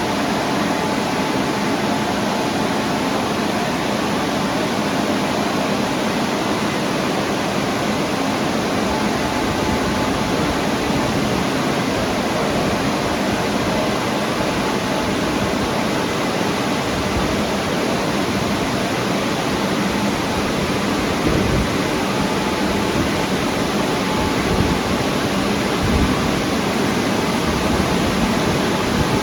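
WashTec automatic car wash machine running, a loud steady rushing noise with a faint whine under it and a few low bumps in the second half.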